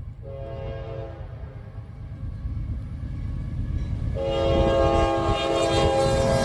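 Horn of an approaching Norfolk Southern diesel locomotive, sounding several notes at once. There is one blast of about a second, then a long blast from about four seconds in, over a low rumble that grows louder as the train nears.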